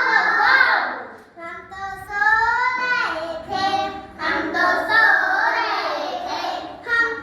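A young child singing a sing-song melody in short phrases.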